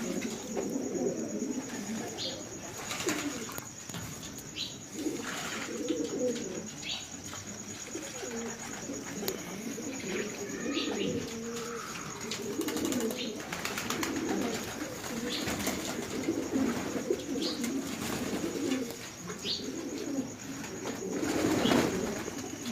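Domestic pigeons cooing over and over in low, repeated coos, with short high chirps from smaller birds every second or two.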